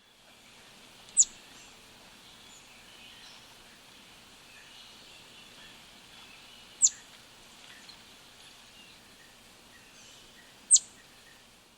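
A bird giving three loud, very short calls that sweep sharply downward in pitch, spaced several seconds apart, over faint background chirping.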